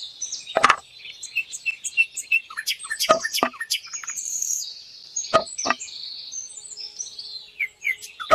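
Small birds chirping and twittering in quick, high-pitched calls and trills, with a handful of sharp taps or clicks scattered through.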